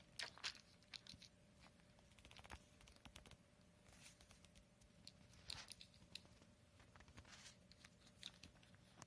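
A cat working at a snack box on the floor to get it open: faint, irregular scrapes, clicks and crinkles of claws and teeth on the box, coming in short flurries every second or two.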